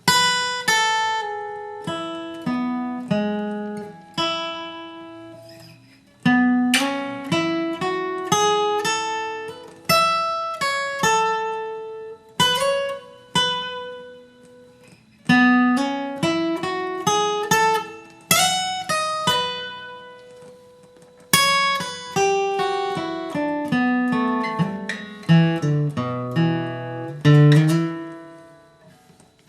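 Acoustic guitar playing a bluegrass lead of picked single notes, in phrases that start again after short pauses about 6, 15 and 21 seconds in.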